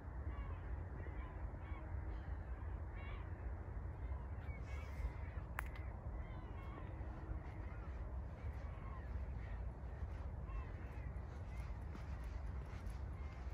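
Birds calling over and over in short calls, about one every half second to a second, over a low steady rumble. A single sharp click comes a little before halfway.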